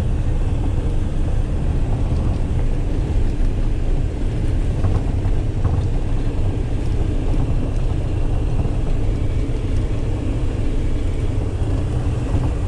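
Pickup truck engine running steadily at idle, a constant low hum.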